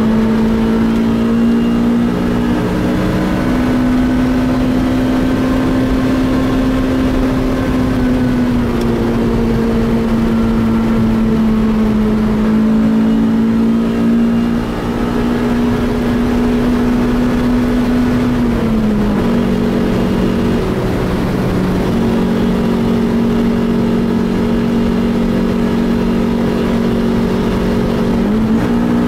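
A car engine heard from inside the cabin, pulling steadily at speed along the track with a strong, even pitch. The pitch steps a little, dips about two-thirds of the way through and climbs again near the end as the throttle and revs change.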